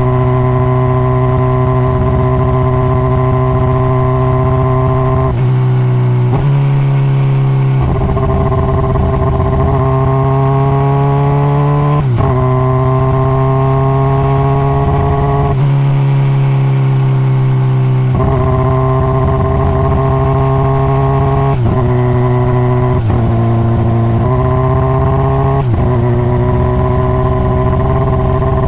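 2021 Honda CBR600RR inline-four on its stock exhaust, ridden on the road. The engine note climbs steadily, then drops or jumps at each of about ten gear changes and throttle changes.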